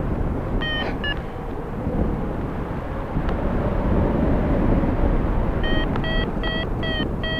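Wind rushing over the microphone in flight, with a paragliding variometer beeping: two short beeps about a second in, then a regular run of about three beeps a second near the end, the vario's climb tone signalling rising air.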